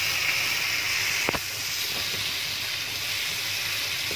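Onions, tomatoes and spices sizzling in hot oil in a wok as they are stirred with a spatula, a steady hiss. A single sharp knock about a second in, with a fainter one shortly after.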